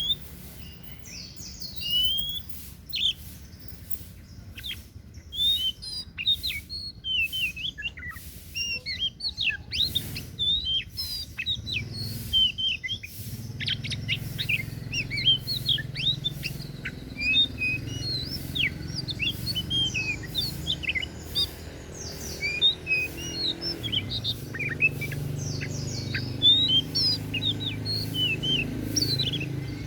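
Oriental magpie-robin (kacer daput) singing a rapid, varied run of whistles and short chirps, sparser for the first few seconds and then almost continuous.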